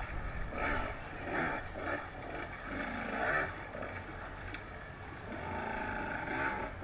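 Dirt bike engine running and revving, its pitch swelling up and down repeatedly.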